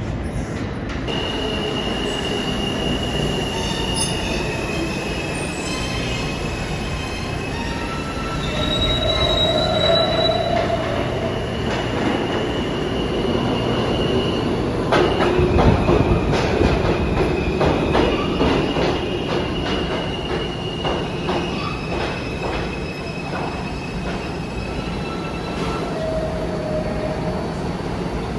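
New York City subway train moving through the station, its steel wheels squealing on the rails in long, high, drawn-out tones that start and stop. About halfway through, a run of rapid clicking wheel beats over rail joints comes in, and this is the loudest part.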